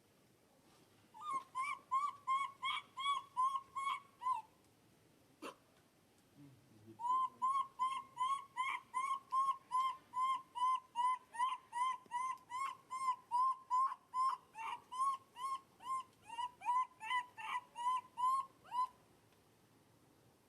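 An animal calling in two long runs of short, evenly spaced yelping notes, about three a second, with a pause of a couple of seconds between the runs; a single sharp click falls in the pause.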